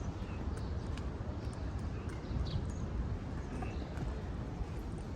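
Footsteps of someone walking, faint regular clicks, over a steady low rush of ocean surf and wind.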